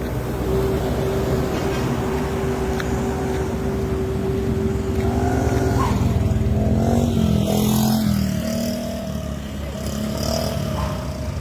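A motor vehicle's engine running with a low, dense hum and a steady whine. About halfway through, the whine gives way to pitch that rises and falls, as from revving or shifting gears.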